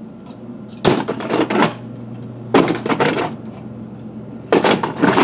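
HO scale model train cars clattering against each other while being rummaged through in a storage box, in several short bursts of knocks: about a second in, around the middle, and near the end.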